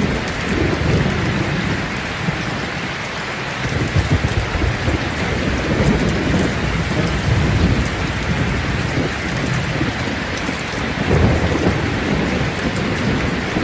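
Steady heavy rain falling, with low rolls of thunder swelling several times.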